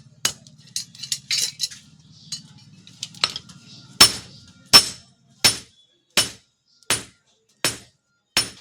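Hand hammer striking steel on an anvil, each blow ringing: a few irregular strikes first, then a steady run of blows about one and a half a second from about four seconds in. A low hum sounds under the first half and stops.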